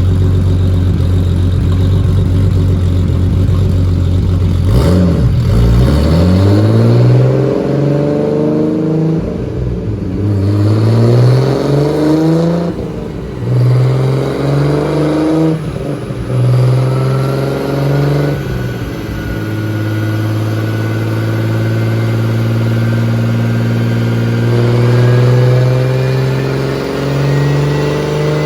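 Turbocharged Toyota Supra inline-six running on the dyno on E85: it holds steady revs, then climbs in revs several times with sudden drops in between, and near the end pulls in a long, slow rise in revs.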